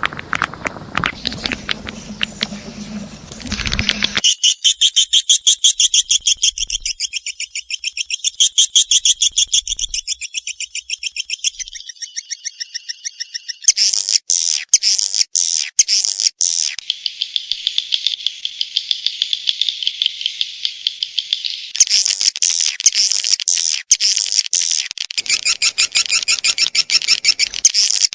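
Swiftlet calling-sound recording: dense trains of rapid, high, twittering chirps that switch abruptly between patterns several times, as in a spliced lure track. Such calls are played to draw edible-nest swiftlets into swiftlet houses. A different, lower and broader sound fills the first few seconds before the chirping starts.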